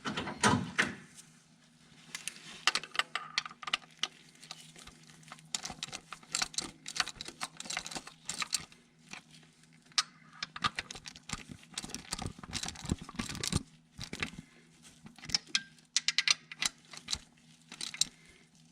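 Irregular light metallic clicks, clinks and rattles of hand tools and metal parts being handled, over a steady low hum.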